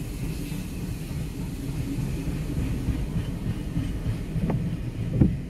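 Passenger train carriages rolling past with a steady low rumble, heard from inside a car. Two brief sharp sounds come near the end.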